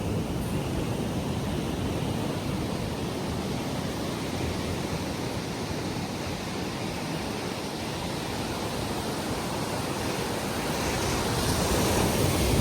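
Small waves breaking and washing up on the beach, a steady rush that swells louder and hissier near the end as a wave comes in.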